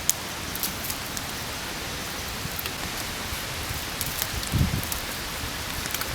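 Steady rain hissing, with scattered sharp drip ticks and a few soft low knocks about four and a half seconds in.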